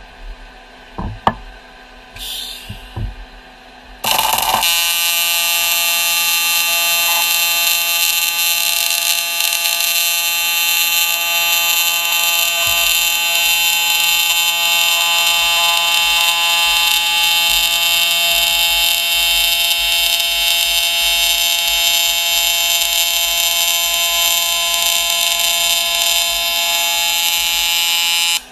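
TIG welding arc struck about four seconds in and held steady, a loud electric hum with many overtones that cuts off abruptly near the end. A few light knocks and a short hiss come before the arc starts.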